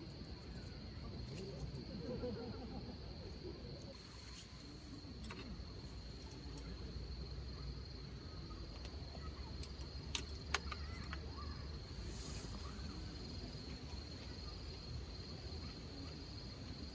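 Insects trilling steadily at a high pitch, over a faint low murmur of distant voices, with two sharp clicks about ten seconds in.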